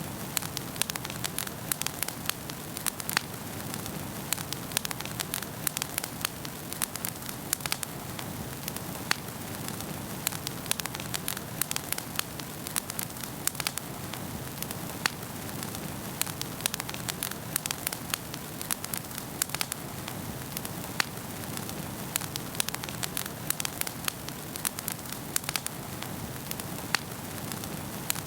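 Wood fire burning in a fireplace, with many irregular sharp crackles and pops over a steady hiss.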